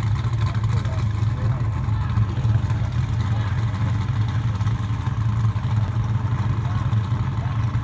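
Ford XT Falcon drag car's engine idling with a steady low rumble as the car creeps up to the start line after its burnout.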